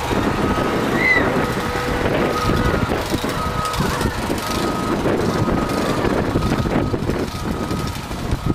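A vehicle's backup alarm beeping about once a second as it reverses, over the rumble of its running engine.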